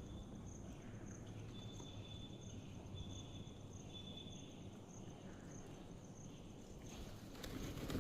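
Faint outdoor ambience with a regularly repeating high chirp, like insects calling, and a few short high steady notes partway through. A rush of noise swells near the end.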